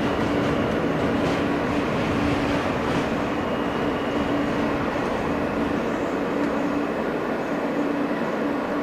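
Inside an R160 subway car: a steady mechanical running noise with a low tone that cuts in and out.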